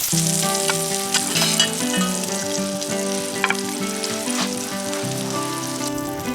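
Food sizzling in a hot frying pan, with a steady hiss and a few sharp pops of fat. Instrumental music with held notes plays over it from the start.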